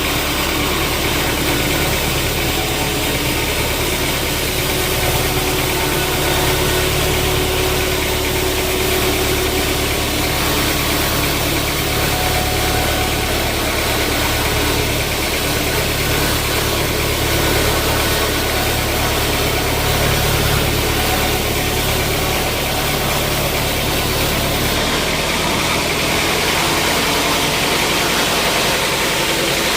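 An engine running steadily with a constant mechanical noise over it; about 25 seconds in its low hum drops away and the sound changes.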